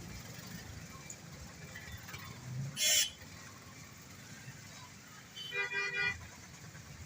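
Street traffic rumble with a short hissing burst about three seconds in, then a vehicle horn honking twice near the end.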